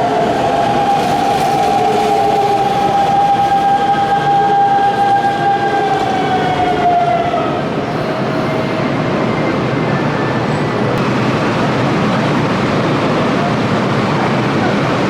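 Electric commuter train on a station track, its traction motors giving a steady high whine that bends down and fades about seven seconds in, over the running rumble of the train, which carries on.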